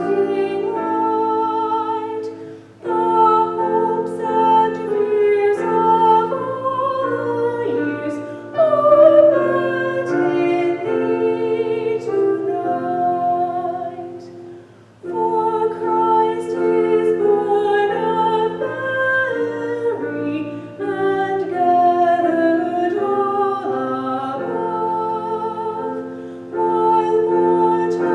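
A slow hymn in long, held chords with a singing voice, the phrases broken by short pauses about 3 seconds and 15 seconds in.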